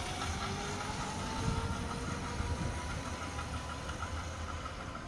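Razor MX350 electric dirt bike being ridden: a faint electric-motor whine rising slowly as it gathers speed, over a steady low rumble.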